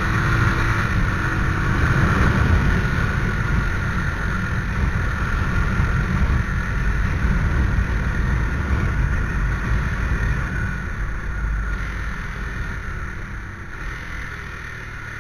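Motorcycle on the move: the engine running under a steady rush of wind on the microphone, easing off and getting quieter over the last few seconds.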